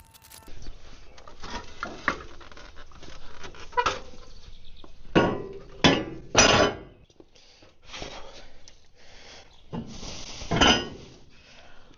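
Heavy steel parts of a Caterpillar D4 bulldozer's track tensioner knocking and scraping together as the compressed spring assembly is worked into place, with irregular metallic clanks, the loudest about halfway through and again near the end.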